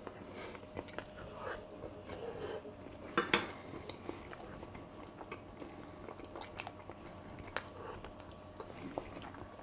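A person chewing a mouthful of food quietly, with small mouth and cutlery sounds; a little after three seconds a fork clatters twice against the stainless steel frying pan as it is set down.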